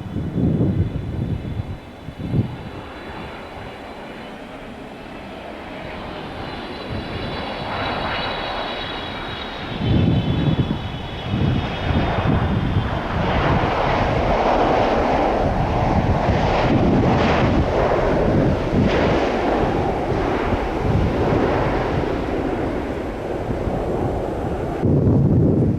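Jet airliner on final approach, its engines first heard as a high, layered whine, then a broad jet rumble that builds and stays loud from about ten seconds in as it passes. Gusts of wind buffet the microphone now and then.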